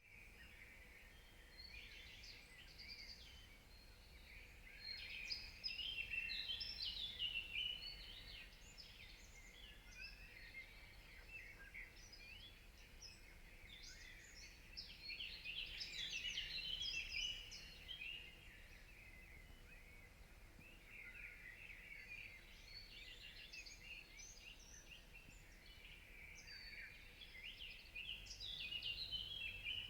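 Birds singing in a dawn chorus: a dense tangle of quick chirps and trills, faint overall, swelling louder a few times.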